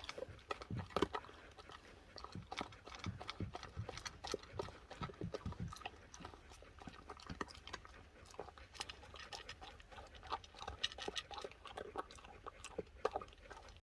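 A dog chewing and crunching its food, with many small irregular crunches.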